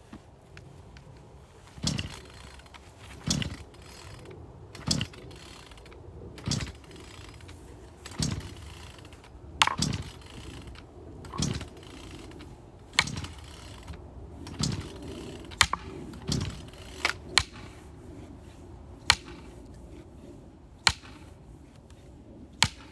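Axe splitting firewood: about ten heavy chopping strikes at a steady pace, one every second and a half or so. After them come a few sharper, lighter knocks.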